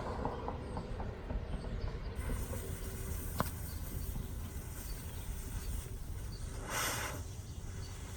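Jumbo smoke ball being lit: a few small crackles, then a steady hiss starts about two seconds in as it begins to pour out smoke, with one sharp tick and a brief louder spurt of hiss near the end.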